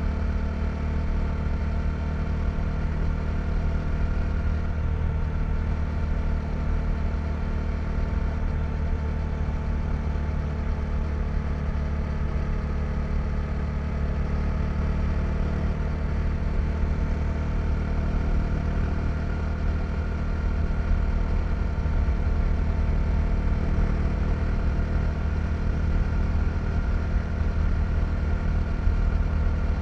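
KTM 390 Duke's single-cylinder engine running at a fairly steady speed while riding, heard from the rider's position. Its pitch stays almost constant, and it gets slightly louder in the second half.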